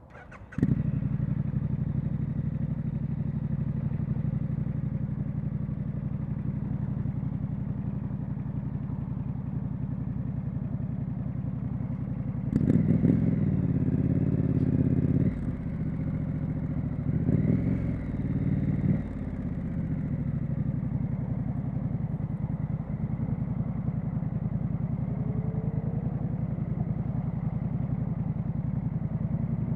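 Triumph Street Scrambler's parallel-twin engine starts up suddenly and settles into a steady idle. It is blipped twice in the middle, once for about two and a half seconds and once for about two seconds, then drops back to idle. A rising tone comes in near the end.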